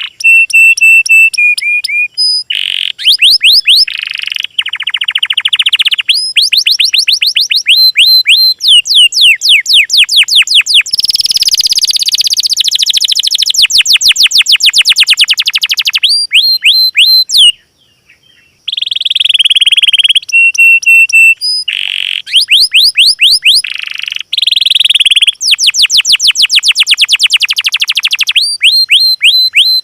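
Small songbirds singing loud, high-pitched song in rapid trills and fast runs of repeated sweeping notes, mixed with short held whistles. The phrases change abruptly, and there is a short break about two-thirds of the way through.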